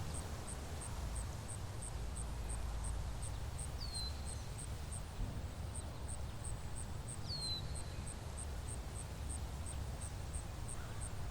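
Woodland ambience: an insect pulsing steadily at a high pitch, about three pulses a second, with a bird's short down-slurred call every three to four seconds, over a steady low rumble.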